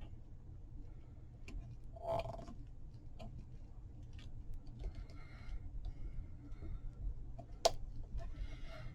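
Light handling of paper craft materials: faint rustles and small taps, with one sharp click about three-quarters of the way through.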